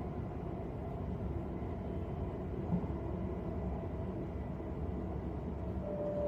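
Steady low rumble of a passenger train running, heard from inside the carriage. A faint steady whine comes in near the end.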